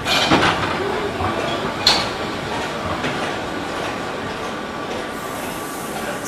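Narrow-gauge passenger carriages rolling slowly past on the rails in a steady rumble, with one sharp click about two seconds in.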